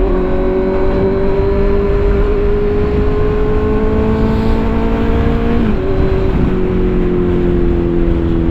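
Motorcycle engine running at a steady cruise, its pitch creeping up slowly, dipping briefly a little past halfway, then easing down, over a heavy rush of wind noise on the microphone.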